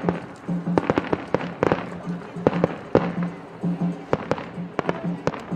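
Aerial fireworks bursting in a rapid, uneven string of sharp bangs, several a second, with festival music and a repeating low beat carrying on underneath.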